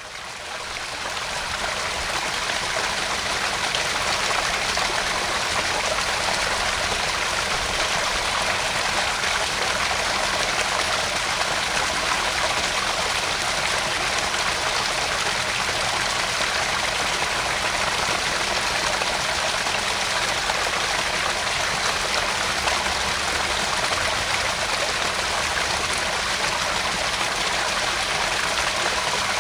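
Small garden pond waterfall: water spilling and splashing steadily into the pond. It fades in over the first two seconds, then holds an even rush.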